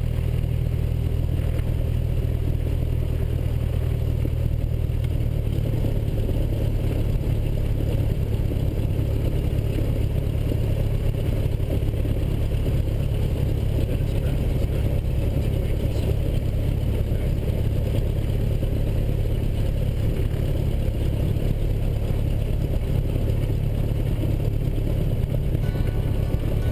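Cessna 172SP's four-cylinder Lycoming engine and propeller running steadily. The engine note steps up about five seconds in and then holds steady.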